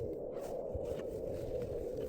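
Blizzard wind blowing steadily, with a few faint clicks about half a second to a second and a half in.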